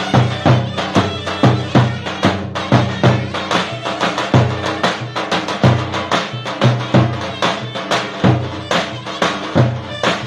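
Traditional Turkish folk music: a shrill reed wind instrument plays a melody over a steady bass drum beat of about two strikes a second.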